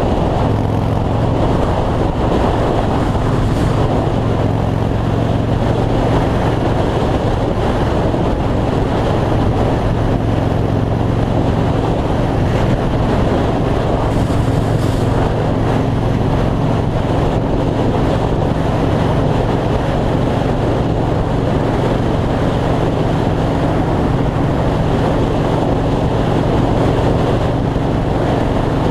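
Yamaha Road Star's air-cooled V-twin running at a steady cruising speed, with heavy wind rush over the microphone.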